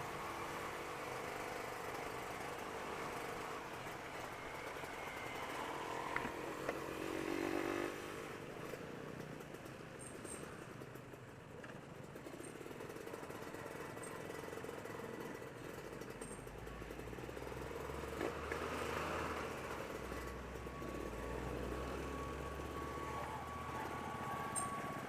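Motorcycle engine running while riding on a wet road, with steady road and tyre noise; a deeper low rumble comes in about two-thirds of the way through.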